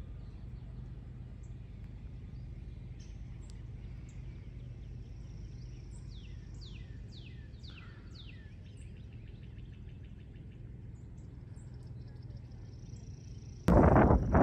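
A bird calls a short series of about six quick falling whistled notes over a steady low hum. Near the end a loud, sudden noise cuts in.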